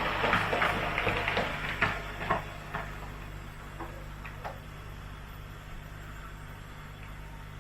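N gauge model train running on the track: a quick clatter of wheel clicks over the rail joints for the first two seconds or so, thinning to occasional clicks. A steady low hum runs underneath.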